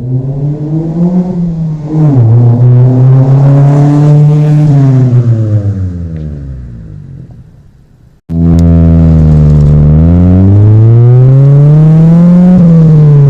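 Mazda Protege5's four-cylinder engine through a 2.5-inch aftermarket exhaust with a Greddy RS muffler, Vibrant resonator and Magnaflow catalytic converter, revving up with a sharp drop in pitch about two seconds in, then falling in pitch as the sound fades away. After a sudden cut about eight seconds in, a second, louder stretch of the car accelerating: the pitch dips, climbs steadily, then drops sharply again near the end, typical of a gear change.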